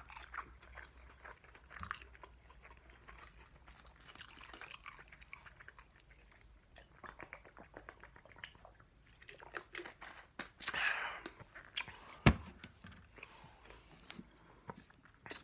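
Close-up chewing of a ramen-noodle and sardine stir fry: small wet mouth clicks scattered throughout, with one sharp knock about twelve seconds in.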